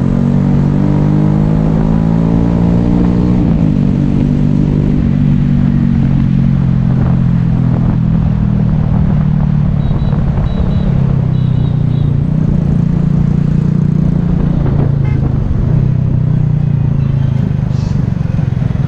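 Yamaha Taurus motorcycle's single-cylinder engine under way: it rises in pitch as it accelerates for about three seconds, drops back at a gear change, then runs at a fairly steady speed.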